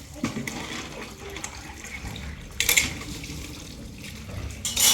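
Water splashing, with two short louder gushes: one about two and a half seconds in and one near the end.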